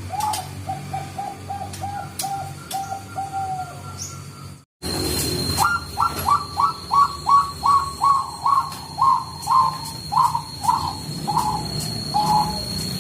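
Zebra doves (Bangkok-bred perkutut) singing: a quick run of about ten short cooing notes, then after a break a second, louder run of about sixteen notes that gradually slows. A faint steady high whine runs under the second run.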